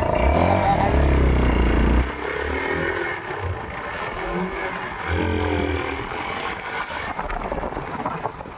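Motor vehicle engine running loudly with some revving, then dropping off suddenly about two seconds in; a second engine rises in pitch and fades away around five seconds in.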